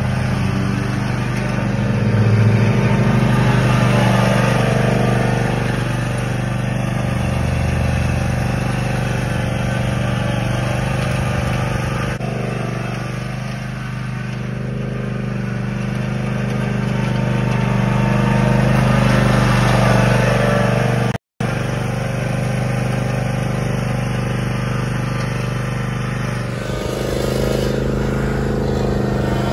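John Deere Z320R zero-turn mower engine running steadily, with a split-second break in the sound about two-thirds of the way through.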